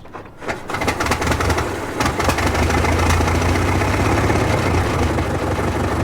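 Ford Model T four-cylinder engine coming in abruptly just under a second in, then running steadily with a low, rapid chugging and a sharp click about two seconds in.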